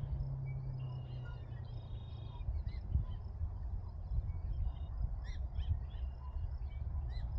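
Small birds chirping and calling, many short notes scattered throughout, over a steady low rumble.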